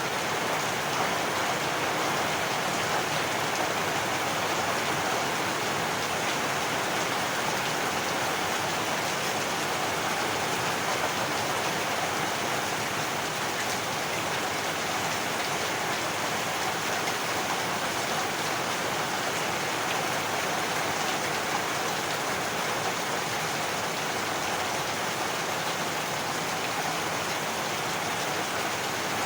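Heavy rain falling steadily, an even hiss of downpour with no thunder and no change in intensity.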